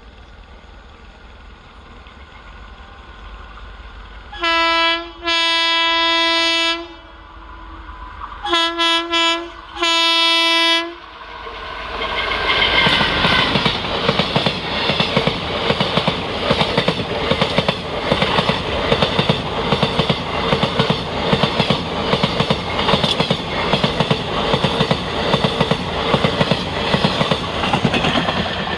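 An Indian Railways train approaching and sounding its horn in several blasts, short and long, then running past with a loud, rhythmic clatter of wheels over the rail joints.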